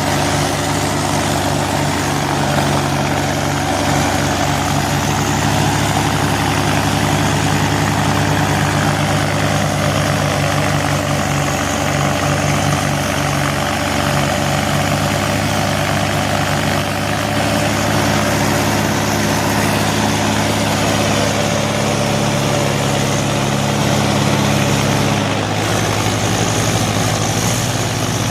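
Tractor engine running steadily at a constant speed, with a sudden change in its note about three-quarters of the way through.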